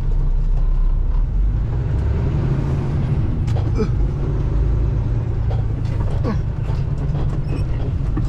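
Semi-truck's diesel engine running with a steady low rumble, with a few faint short squeaks.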